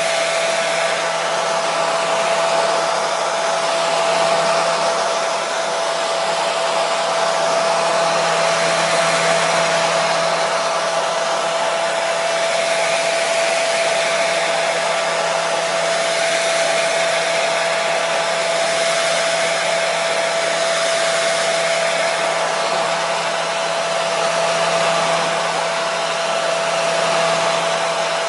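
Hair dryer running continuously: a steady rush of air with a constant whine from its motor.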